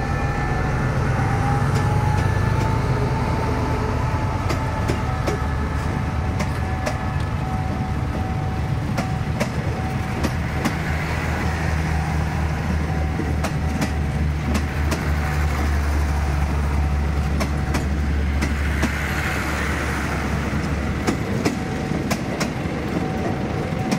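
State Railway of Thailand passenger train passing close: the diesel locomotive's deep engine rumble, then the coaches rolling by with their wheels clicking over the rail joints from about nine seconds in.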